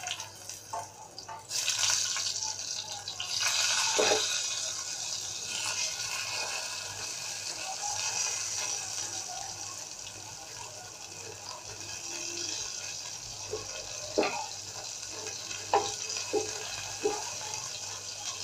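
Pieces of pointed gourd sizzling in hot oil in a frying pan: a steady hiss that sets in about a second and a half in as they go into the oil. A few knocks and clinks of the pieces and a spatula against the pan, several of them near the end.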